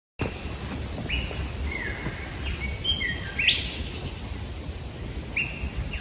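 Birds calling: a series of short, high whistled notes, some sliding down in pitch and one sweeping up sharply about three and a half seconds in, over a steady background hiss and low rumble.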